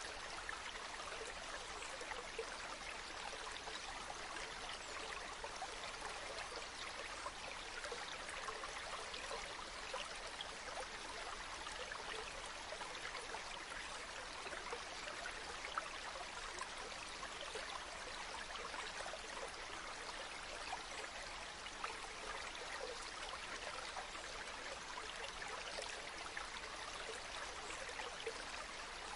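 Flowing water trickling steadily, as of a small stream, an even rushing hiss with fine speckle and no breaks.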